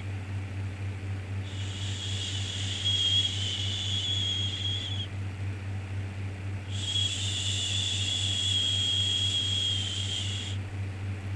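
Long shushing 'shhh' sounds for soothing a baby. Two come in this stretch, each held about three and a half seconds with a pause of a second and a half between, over a steady low hum.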